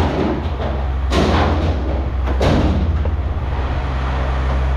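Pieces of scrap metal being thrown onto a pile, landing with two crashes about a second and a half apart, over a vehicle engine idling steadily.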